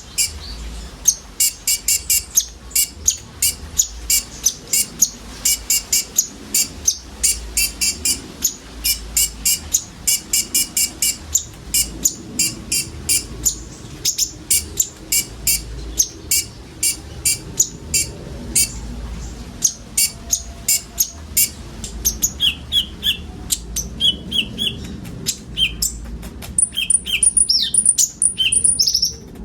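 Brown-throated sunbird (konin) calling: a long string of sharp, high chips, about two to three a second, changing about three quarters of the way through to sparser, slightly lower notes and then a quick high-pitched flurry near the end.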